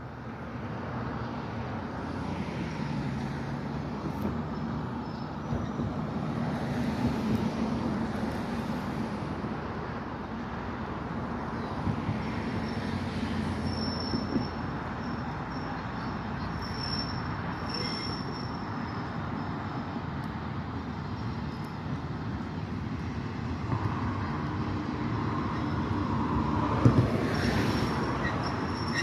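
A diesel-hauled train, Sierra Northern's EMD F7 locomotive with a passenger coach, running slowly onto a steel truss bridge: a steady low diesel engine note under rolling wheels, growing louder as it nears. From about halfway in, a thin high wheel squeal comes and goes, and there is a single sharp knock near the end.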